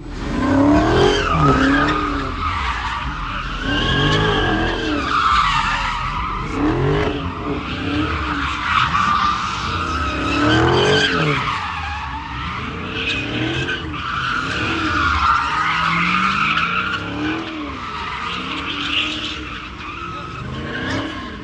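A car's tyres squealing continuously as it skids, with the engine revving up and down over and over, about once every second or two. It starts suddenly and eases off near the end.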